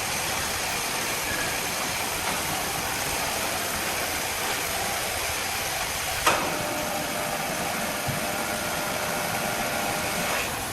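An engine running steadily under a broad hiss, with one sharp knock about six seconds in.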